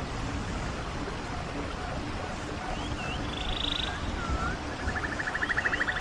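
Steady rush of a running stream, with small calls over it: a few swooping whistles about halfway through, then a fast pulsing trill near the end.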